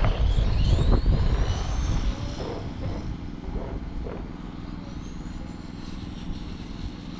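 Electric 1/10 scale RC touring cars racing, their 25.5T brushless motors whining high, the pitch rising and falling as the cars accelerate and brake. A loud low rumble in the first two seconds.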